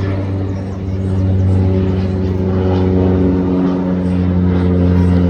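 A vehicle engine running at a steady speed: a loud, even drone with a clear low pitch that wavers slightly.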